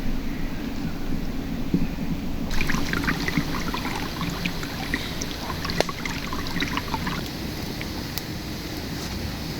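Shallow river water flowing steadily, with a spell of splashing and trickling for a few seconds in the middle.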